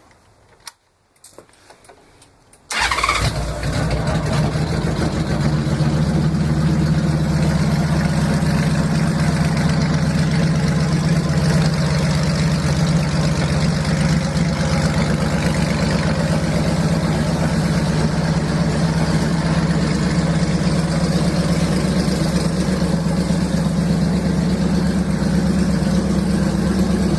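Honda Valkyrie motorcycle's flat-six engine cold-starting: a click about a second in, a few light ticks, then near three seconds in the engine fires abruptly and settles into a steady, even idle.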